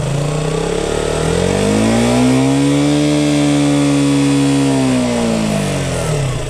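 KTM Duke 200's single-cylinder four-stroke engine revved by its added throttle lock: the revs rise smoothly from idle, hold high for about three seconds, then drop back to idle.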